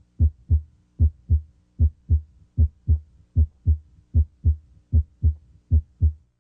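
Normal heart sounds recorded through a stethoscope at the mitral area (apex): a regular paired lub-dub of S1 and S2 at about 75 beats a minute. A faint steady hum runs beneath.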